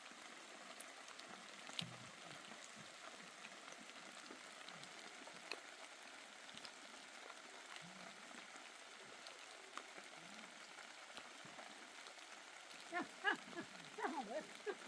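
Steady light rain with scattered ticks of drops. Near the end a few short pitched calls rise over it.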